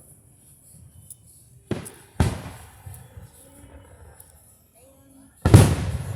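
Aerial fireworks shells bursting: three booms, two close together about two seconds in and a louder one near the end, each trailing off in a rumble.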